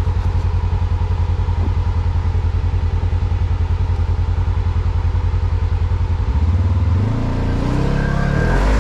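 Side-by-side UTV engine idling with an even, throbbing pulse, then revving in rising and falling pulls over the last couple of seconds.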